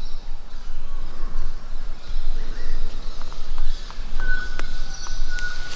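Bush birds calling: faint chirps, then a few thin whistled notes and short ticks in the second half, over a low, uneven rumbling background.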